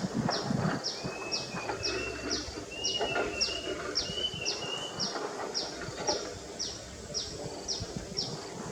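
Outdoor animal calls: a high, short, falling chirp repeated evenly about twice a second, with a few brief wavering calls in the first half.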